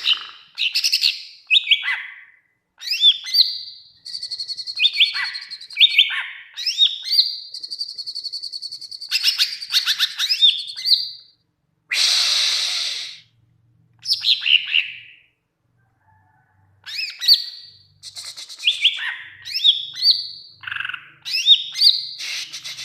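A green leafbird (cucak ijo) singing in full voice: quick high whistled notes, slurs and rapid trills in bursts, with a harsh rasping call about twelve seconds in and a short pause after it.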